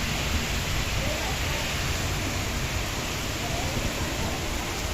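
Heavy rain falling steadily, an even wash of noise.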